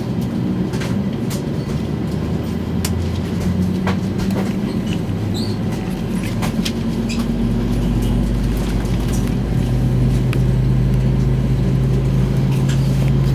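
Steady low mechanical drone of an Airbus A320 heard inside the cabin, with low hum tones that shift in steps and grow louder in the second half, and a few small clicks.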